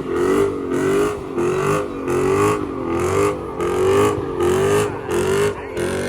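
Car engine revving up and down in quick repeated pulses, about one and a half a second, while the car slides with its tyres spinning in a burnout or donut.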